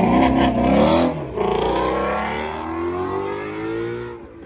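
A car engine revving up, breaking off briefly about a second in, then pulling again and slowly falling in pitch and loudness as the car moves away.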